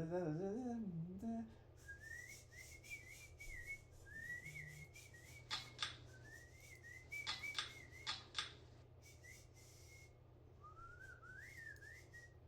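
A man whistling a wandering tune, after a short hummed note at the start, with a few sharp clicks in the middle. Under it runs a steady low hum from the running Casablanca Four Seasons III ceiling fan.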